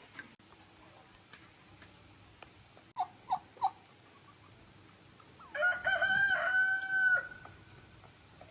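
Rooster crowing once, a single long call of nearly two seconds, about five and a half seconds in. It follows three short clucks about three seconds in.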